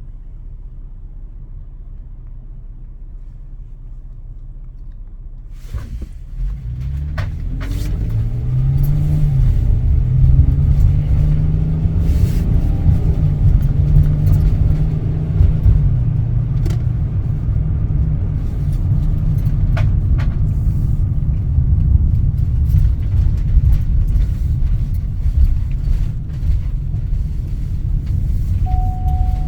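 A vehicle engine runs with a low rumble. About six seconds in it grows louder and rises in pitch as it speeds up, then runs steadily, with scattered clicks. A steady tone starts near the end.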